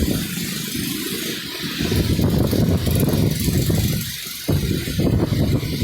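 Steady hiss of rain with a heavy, uneven low rumble that drops away briefly about four seconds in, then returns suddenly.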